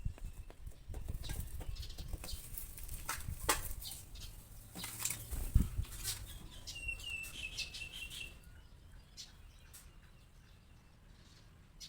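A small bird fluttering its wings and tapping against a mirror in irregular bursts, with a brief high-pitched call about seven seconds in; the flutter dies down to a few light taps near the end.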